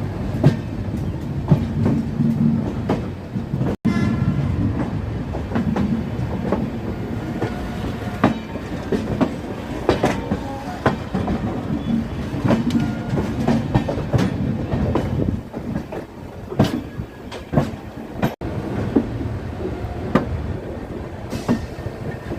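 Passenger train coaches running on the track, wheels clattering and knocking irregularly over rail joints and points with a steady rumble underneath and a few short squeals. The sound drops out briefly twice, about 4 s and 18 s in.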